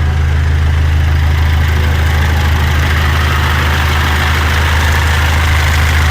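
Mitsubishi L200 Triton 3.2 four-cylinder turbodiesel idling steadily, with a hissing rattle like a rattlesnake's over the engine hum, louder after about two seconds: the sound of a worn timing chain.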